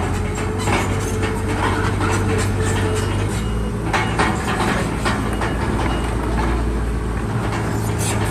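Crawler bulldozer's diesel engine running steadily, with irregular clanks and rattles of steel tracks and blade. The engine's tone shifts a little about three seconds in.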